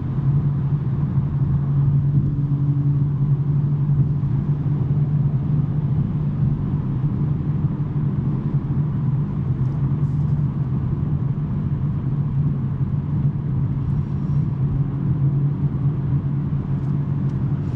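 BMW M3 G80's twin-turbo inline-six with a SuperSprint non-resonated J-pipe exhaust, running at a steady cruise with a constant low drone.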